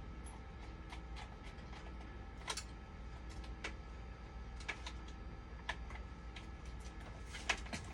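Light, sharp clicks and taps, scattered about once a second, over a low steady hum.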